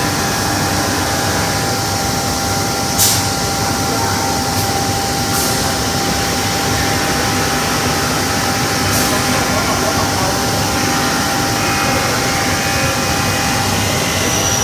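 CNC glass-cutting machine running: a steady mechanical noise with a faint steady tone, broken by a few sharp clicks about three, five and nine seconds in.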